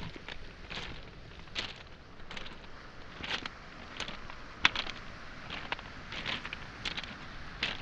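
Footsteps crunching over beach pebbles and small boulders at a steady walking pace, about one step a second, one step sharper than the rest about halfway through. A faint steady wash of surf lies behind.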